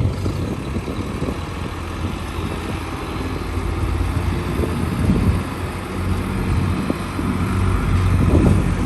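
Heavy diesel earthmoving machinery running steadily, a low engine drone, with a few short knocks about five, seven and eight seconds in.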